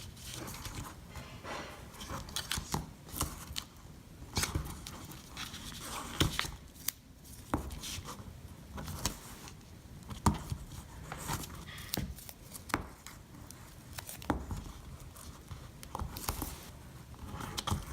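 Stampin' Up! Tear & Tape double-sided adhesive being torn off by hand in strips and pressed onto a paper flap, with paper rustling and irregular small taps and clicks.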